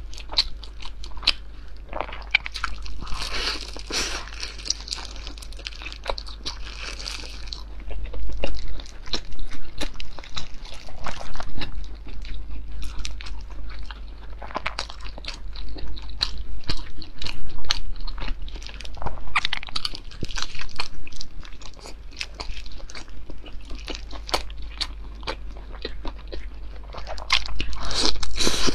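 Close-miked biting and chewing of soft steamed buns (baozi), a dense run of crackly mouth clicks with louder stretches every few seconds, over a steady low hum.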